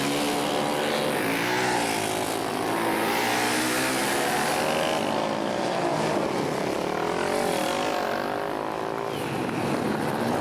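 Several flat-track racing motorcycle engines running together, their pitch rising and falling as they rev up and back off.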